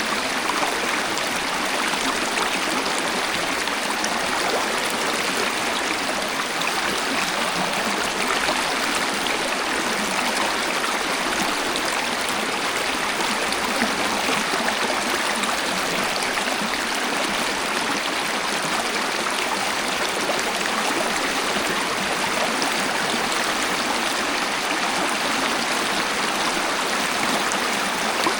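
Waterfall: a steady, unbroken rush of falling and splashing water, an even hiss with little deep rumble.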